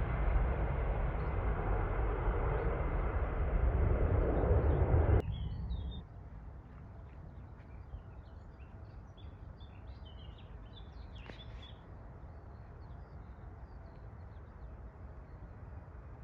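Loud, steady jet airliner engine noise that cuts off abruptly about five seconds in. It leaves a quiet background with small birds chirping.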